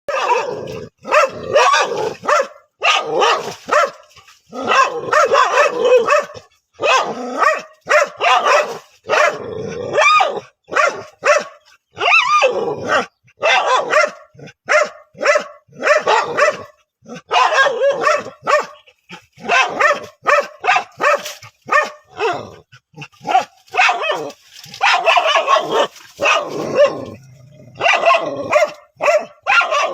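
A dog barking over and over, loud sharp barks in quick runs with short pauses between them.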